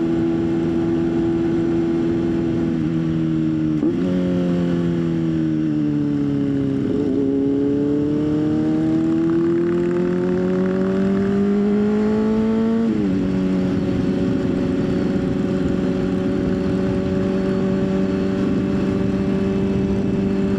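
Motorcycle engine running under way at a steady pitch. About four seconds in the pitch jumps up and then sinks for a few seconds. The engine then pulls steadily up in pitch until a sudden drop about thirteen seconds in, an upshift, and runs steady again after that.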